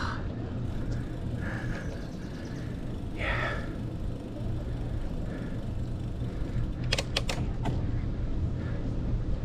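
Steady rumble of wind and riding noise from a bicycle on the move, with a quick run of four or five sharp clicks about seven seconds in.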